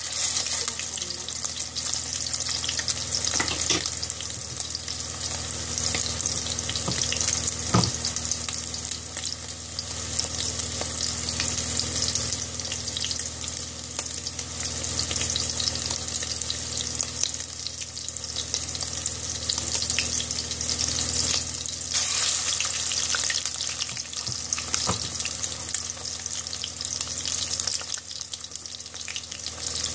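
Chicken tikki patties shallow-frying in hot oil in a stainless steel pan: a steady, crackling sizzle. A few sharp clicks stand out, the loudest about eight seconds in.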